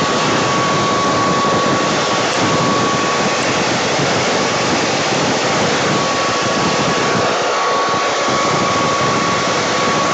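Hair dryer running on a steady setting, blowing wet poured paint across a canvas in a Dutch pour. It makes a constant rush of air with a thin steady motor whine that drops away for a couple of seconds a few seconds in.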